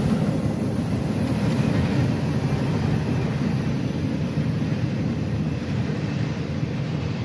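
Freight train of hoppers and gondolas rolling past at speed, a steady loud low rumble of the cars on the rails that eases slightly near the end.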